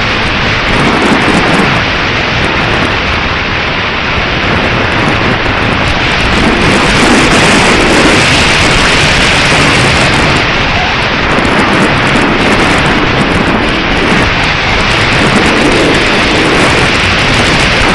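Strong wind buffeting the microphone: a loud, steady rush of noise, growing a little louder partway through.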